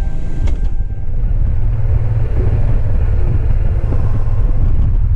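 Motorcycle under way on the road, a steady low rumble throughout. The tail of a music track cuts off with a click about half a second in.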